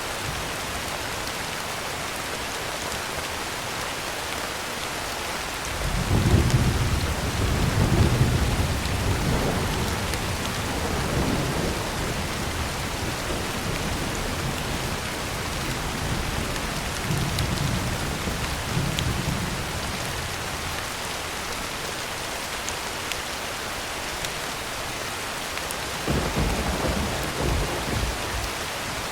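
Heavy rain falling steadily on a tin roof. A long roll of thunder starts about six seconds in, is loudest at first and fades away over the next fifteen seconds, and a second, shorter rumble comes near the end.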